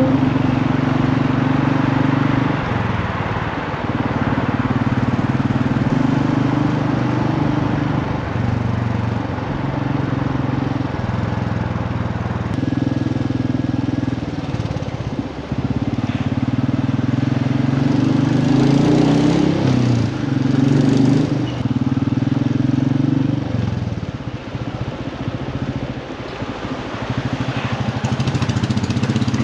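Royal Enfield motorcycle engine running steadily on the move, its pitch holding and then shifting every few seconds as the throttle and gears change, with wind and road rush over it.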